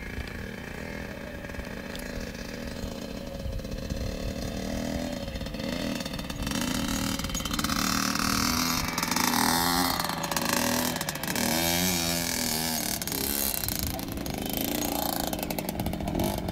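Dirt bike engine running and revving, growing louder about halfway through, its pitch rising and falling several times.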